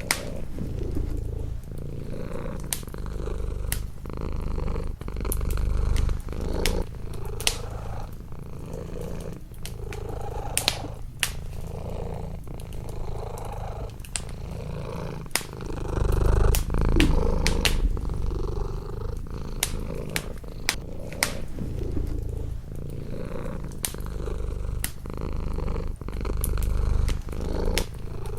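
Domestic cat purring close up, a low steady rumble that swells and fades every few seconds. Many sharp crackles and pops from a wood fire in a fireplace run irregularly over it.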